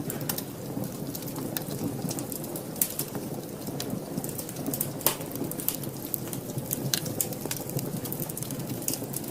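Wood fire burning in a fireplace: a steady low rush of flames with frequent sharp crackles and pops, the loudest pop about five seconds in.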